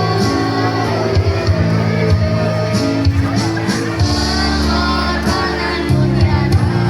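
Children's choir singing over a pop-style backing track with sustained bass notes and a steady drum beat.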